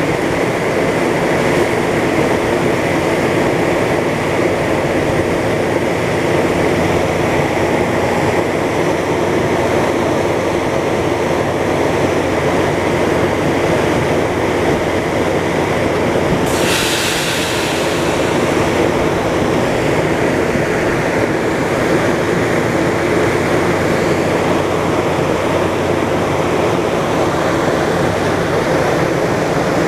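Diesel engines of an NJ Transit ALP-45DP dual-mode locomotive running steadily with a low hum while the commuter train stands at the station. About sixteen seconds in, a sudden sharp hiss of air cuts in and fades over a second or two.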